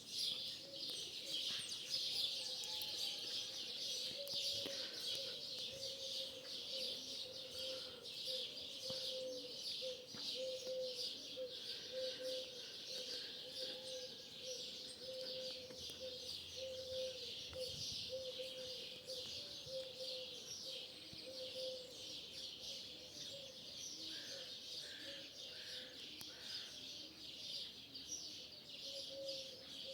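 Dense chorus of starlings chattering and chirping continuously, many birds at once, at dawn.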